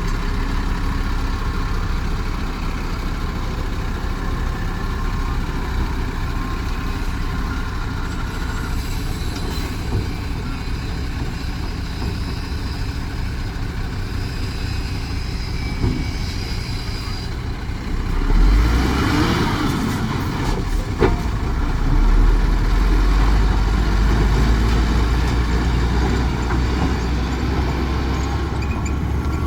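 Heavy truck engine running steadily. About 18 seconds in comes a burst of hissing noise, and from about 22 seconds the engine's deep rumble grows louder.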